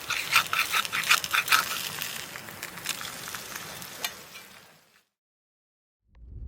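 Campfire sizzling and crackling, a steady hiss dotted with sharp crackles, fading out about five seconds in.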